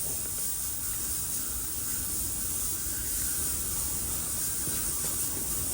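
Ultrasonic cleaner running: a steady hiss with a bright high edge, cutting off abruptly at the end.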